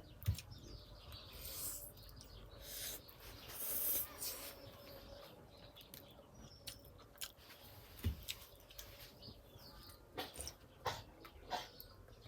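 People eating Korean instant ramen noodles: two noisy slurps about two and four seconds in, then scattered small clicks and mouth smacks of chewing near the end.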